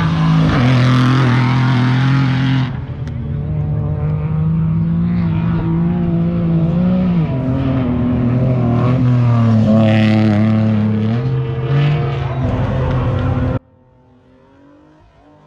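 Off-road race vehicle's engine at high revs, its pitch climbing and dropping several times as it shifts gears. It cuts off suddenly near the end to a much quieter engine sound.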